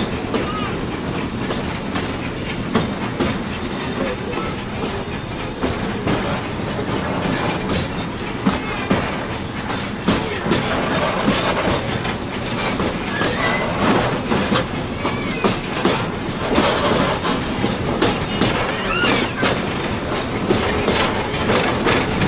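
Narrow-gauge steam train rolling along the track, heard from a passenger car, its wheels clicking steadily over the rail joints. The clicks come more often in the second half.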